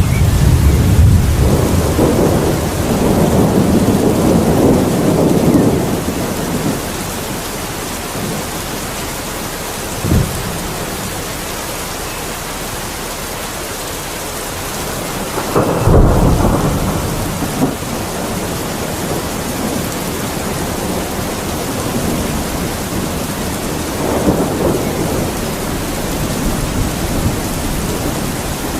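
Steady rain with thunder. A long rumble opens, a short sharp crack comes about ten seconds in, a loud clap with rolling rumble about sixteen seconds in, and a weaker rumble near the end.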